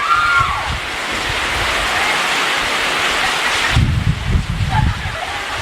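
Heavy tropical rain pouring down in a thunderstorm, a steady hiss, with a low rumble of wind or thunder about four seconds in.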